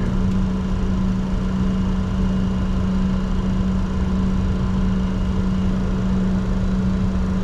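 Steady cockpit noise of a Bombardier Challenger 604 on the ground with its engines running: a low rumble under a constant hum, without change.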